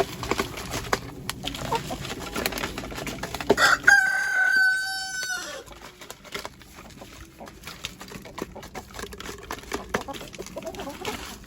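A rooster crows once, a long held call about four seconds in. Around it, chickens cluck and there are light scattered taps.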